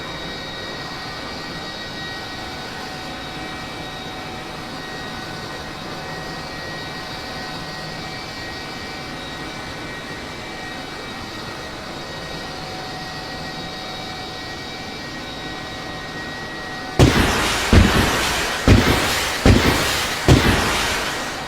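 Steady aircraft engine drone with several steady whining tones. About three quarters of the way in, a run of loud sharp blasts starts, five or six of them a little under a second apart, each with a fading echo.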